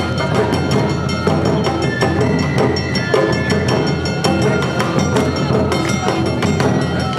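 Awa odori narimono band playing: big and small taiko drums and a hand-held kane gong keep a fast two-beat rhythm of sharp strikes, while a shinobue flute plays a held, high melody over it.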